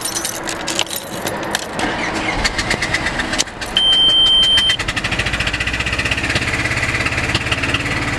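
Car engine running badly: an irregular knocking at first, then, after a steady high tone of about a second, a fast, even clatter. This is the sound of a broken-down engine with its engine warning light on, one that isn't supposed to sound like this.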